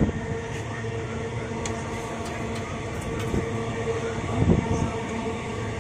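Passenger train running, heard from inside the coach: a steady rumble of wheels on the track with a steady hum and a few light clicks and rattles.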